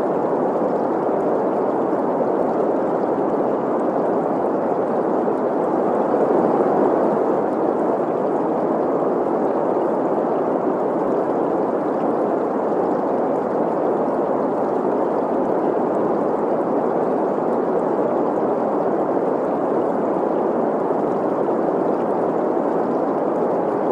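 Steady green noise, an even hiss centred in the middle range, blended with the flow of a stream.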